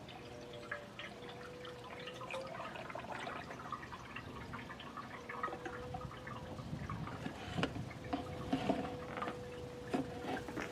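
New motor oil pouring from a bottle into the oil filler of a 3.8 V6 engine, with small irregular gurgles and drips, growing slowly louder.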